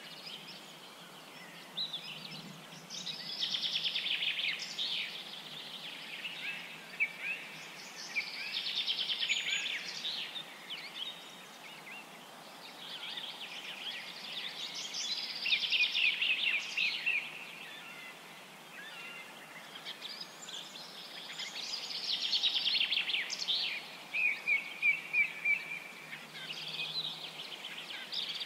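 Bird calls: bursts of fast chirping trills, each a couple of seconds long, coming back about every five or six seconds.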